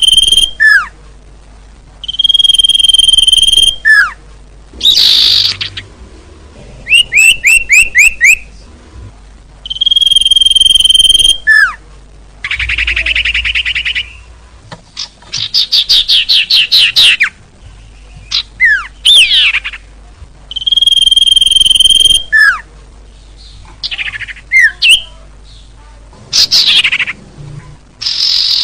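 Recorded lure calls of small songbirds played in a repeating loop. A held whistle about a second long drops into a quick falling note, alternating with fast trills and chattering phrases, with short pauses between.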